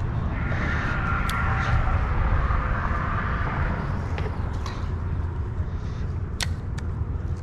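Road traffic on the bridge overhead: a vehicle's tyre noise swells past about a second in and fades away by four seconds, over a steady low rumble, with a few sharp clicks.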